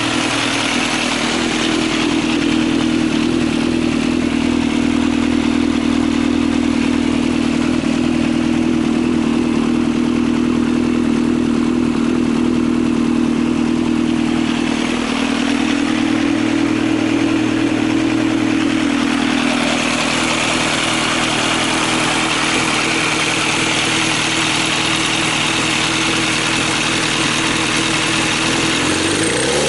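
Yamaha XJR1300 inline-four motorcycle engine on FCR41 carburetors idling steadily, its pitch shifting slightly around the middle.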